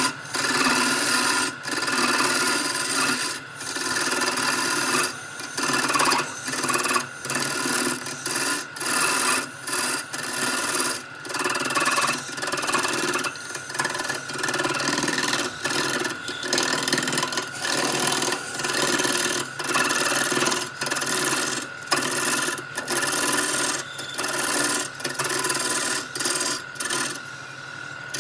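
Repeated rasping strokes on wood, each under a second with short gaps between, over a steady high whine.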